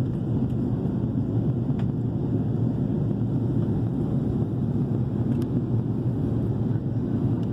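Steady low rumble of an Airbus A330's cabin during descent: engine and airflow noise heard from inside the passenger cabin, with a couple of faint ticks.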